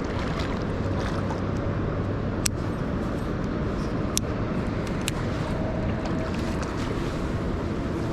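Steady rushing noise of a river flowing, with a few sharp clicks about two and a half, four and five seconds in.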